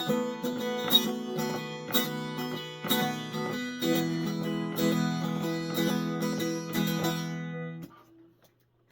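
Guitar strumming chords in a steady rhythm, with a strong strum about once a second, ending a song; the playing stops about eight seconds in.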